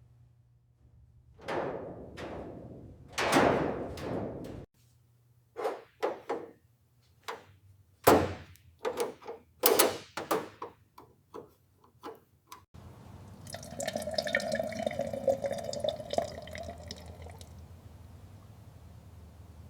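A run of knocks and clunks, like metal parts being handled and set down, then a steady whir for about four seconds that tails off.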